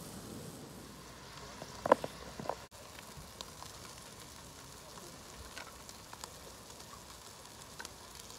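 Buffalo steaks sizzling on a hot griddle: a steady frying hiss with small crackles and pops, and a few sharp clicks about two seconds in.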